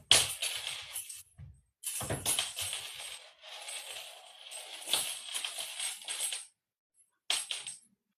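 Small cat toy rattling and jingling in irregular bursts as it is batted and tossed about, stopping for about a second shortly before the end.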